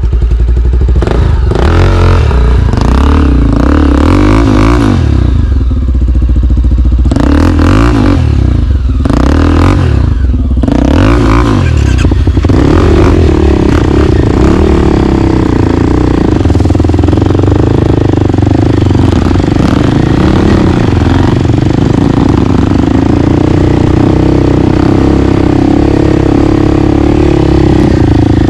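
Four-stroke single-cylinder trail bike engine running at low, wavering revs while riding on a trail, with irregular rough noise over the first dozen seconds or so.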